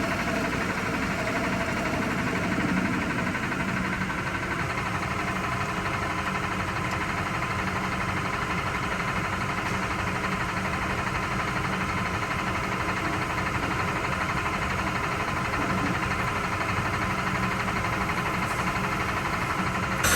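A machine running steadily with an even, engine-like hum that doesn't change.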